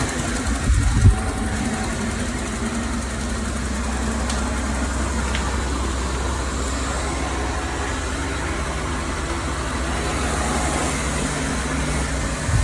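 Xiaomi Mi Robot Vacuum-Mop Essential running: a steady hum of its suction motor and drive, with a couple of low thumps about a second in.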